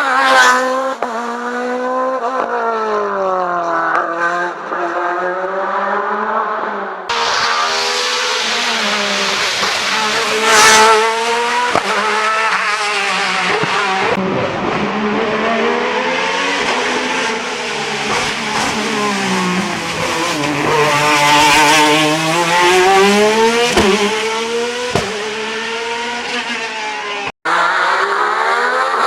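Racing car engines at hard throttle, the note climbing through each gear and dropping back at the shifts and on braking, in several short passes cut together.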